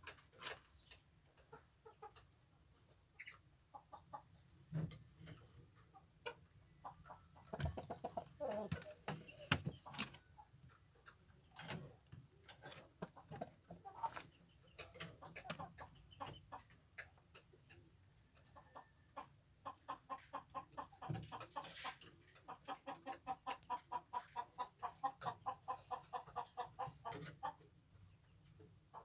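Chickens clucking, among frequent short sharp taps. In the last third comes a fast, regular run of short clucks, several a second.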